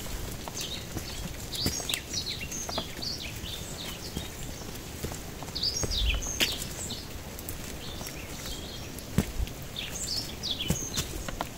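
Small birds chirping in three spells of quick, high, falling notes, over the soft steps of someone walking a dirt forest trail and scattered small clicks.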